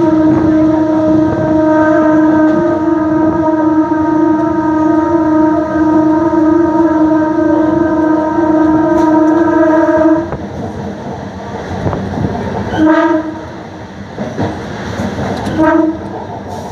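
Train horn sounding one long blast of about ten seconds, then two short toots a few seconds apart, over the steady running noise of the train on the rails.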